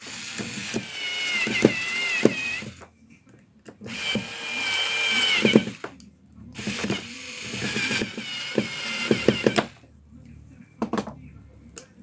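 Wahl Senior cordless hair clipper, fitted with a new motor and battery, switched on and run in three bursts of about three seconds each: a high, slightly wavering motor whine over the hiss of the blades, stopping between runs. A short knock comes near the end.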